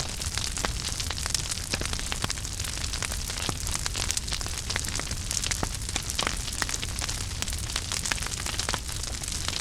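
Wood fire burning in a fireplace: a steady low rumble and hiss with many sharp, irregular crackles and pops.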